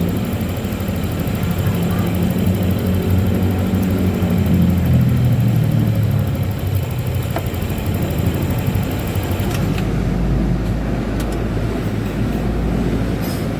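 Yamaha Lexi 125 scooter's single-cylinder fuel-injected engine running.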